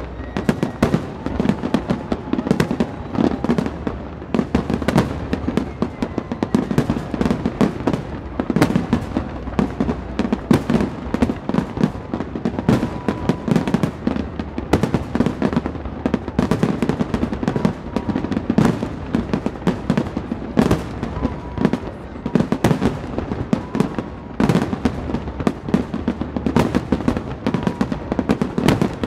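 Fireworks display: aerial shells bursting in a dense, continuous barrage of bangs, several a second without a pause.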